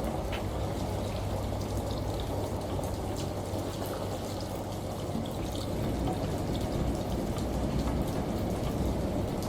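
Layered household ambience: steady rushing water with scattered drips, as from rain and a running shower, over a low steady hum from a washing machine.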